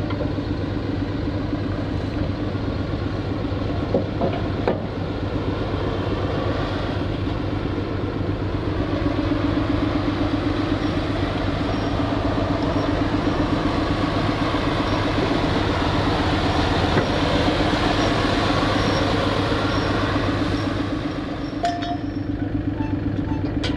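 Heavy diesel engine running steadily. It grows louder from about a third of the way in and eases off again near the end, with a faint repeating beep in the louder part.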